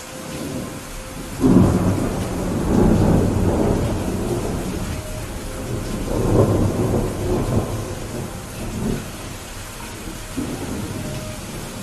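Steady rain with a clap of thunder about a second and a half in, rumbling on in several swells and fading over the next seven seconds, with a fainter rumble near the end.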